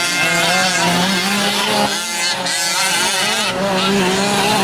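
Several 1/5-scale gas RC trucks' small two-stroke engines racing, each revving up and down as the trucks run the track, their pitches wandering over one another.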